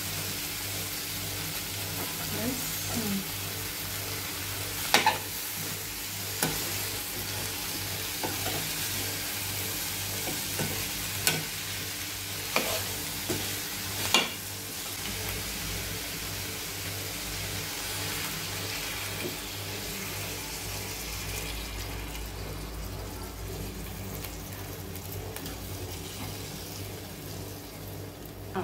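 Cauliflower and potato pieces sizzling in a hot kadhai while a metal spatula stirs them, with several sharp clinks of the spatula against the pan in the first half. The sizzle dies down after about twenty seconds.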